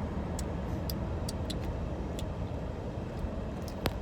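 Steady low rumble of a car idling, heard from inside the cabin, with a few faint clicks and one sharper click near the end.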